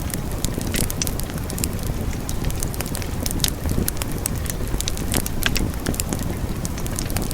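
Wood fire burning in a fireplace, a steady low rumble with frequent sharp crackles and pops.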